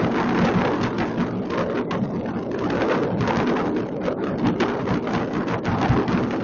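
Massed consumer fireworks going off across a city: many overlapping bangs and crackles merging into a continuous din at a steady level.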